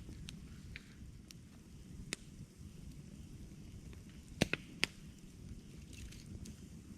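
Campfire crackling: a steady low rumble of burning wood with scattered sharp pops and snaps, loudest in a quick cluster of two or three pops about four and a half seconds in.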